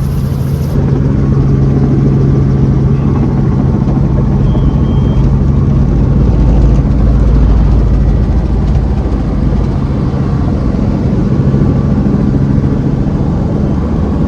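Tour helicopter in flight, heard from inside the cabin: a loud, steady engine and rotor drone with a deep hum.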